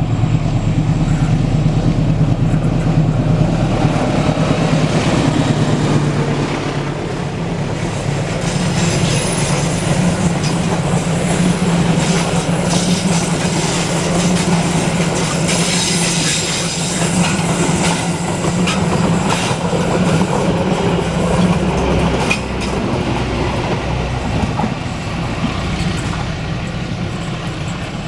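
A train passing: the steady low drone of a diesel locomotive, with steel wheels clattering over the rail joints and a thin high wheel squeal, strongest through the middle.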